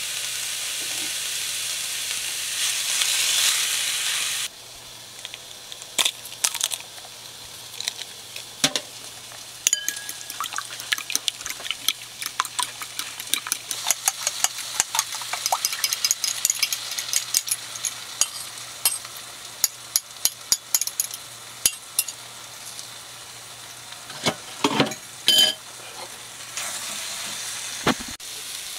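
Food frying in a pan: a loud, steady sizzling hiss that cuts off sharply a few seconds in, followed by a long run of scattered pops and crackles, with the sizzle returning near the end.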